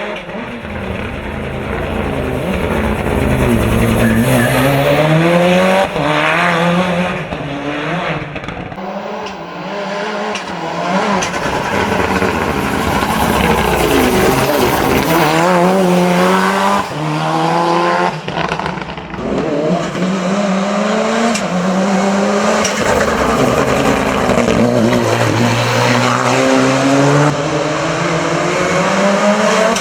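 Mitsubishi Lancer Evo VIII hill-climb prototype's engine running hard at racing speed. Its pitch climbs and drops again and again as it changes gear and lifts off for corners.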